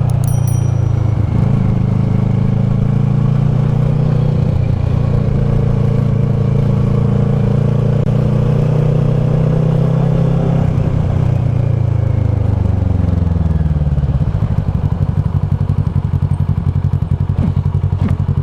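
Kawasaki ER-6f's parallel-twin engine through a Leo Vince SBK slip-on exhaust, held at a steady engine speed, then dropping in revs about two-thirds of the way in and settling into a low, pulsing beat near the end.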